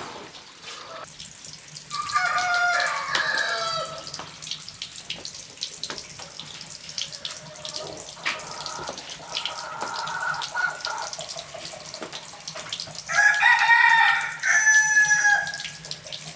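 A rooster crowing twice, each crow about two seconds long, with a fainter call between them, over the steady hiss of a running water tap.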